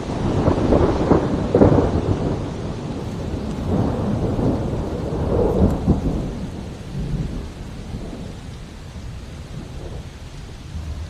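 Rolling thunder in two long rumbling waves, the first in the opening two seconds and another around five seconds in, dying away after about seven seconds, over a steady hiss of rain.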